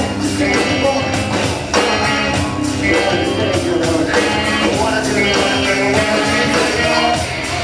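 Live rock band playing loudly: drums keeping a steady beat under guitars and bass.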